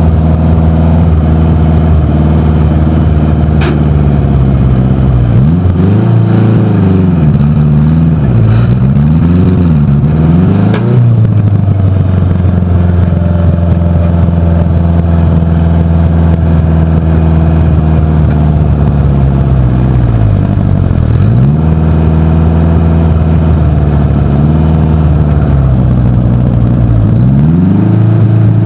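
Pulling tractor's engine running loud and steady, revved up and down several times in quick swings in the first half. Later the revs dip once, and they rise again near the end.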